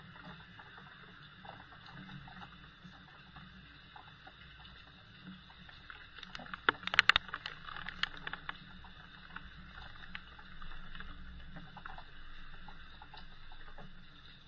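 Steady rain heard from a window, a continuous soft hiss. About halfway through comes a short flurry of sharp taps or clicks, the loudest sound, then the steady rain again.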